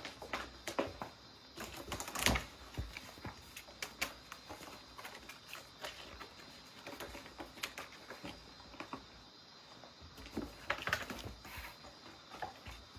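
Light, irregular taps and clicks of cats' paws and claws on a hard surface as they play, with a louder knock about two seconds in and a quick flurry of taps near the end.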